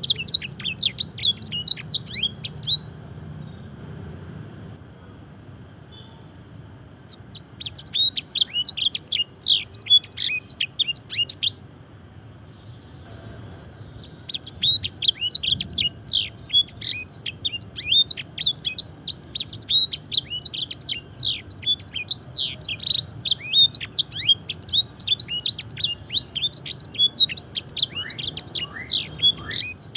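Domestic canary singing fast trills of sharp, high sweeping notes, its song filled with learned blackthroat and edel sanger phrases. It sings in bursts, pausing a few seconds near the start and again around the middle, then runs on unbroken through the second half. A faint low hum lies under it.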